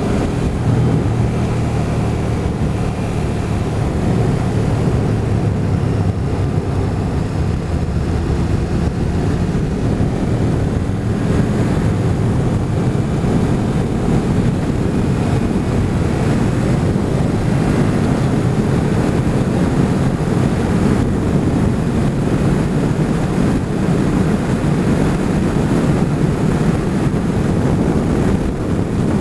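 Motorcycle running steadily at road speed, its engine note buried under heavy wind noise on the microphone.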